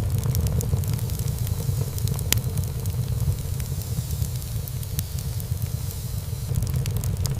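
Wood fire burning in a fireplace: a steady low rumble of flames with frequent small crackles, and a sharper pop a little over two seconds in.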